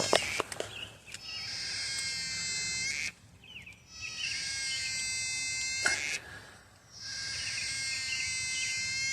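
An animal's high, even trilling call, heard three times, each lasting about two seconds with about a second's pause between.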